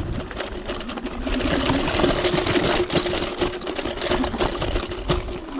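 Electric hyperscooter's motor whining at a steady pitch while it rides over a rough dirt trail, with constant rattling and crunching from the tyres and frame on the ground. Right at the end the whine begins to fall in pitch as the scooter slows.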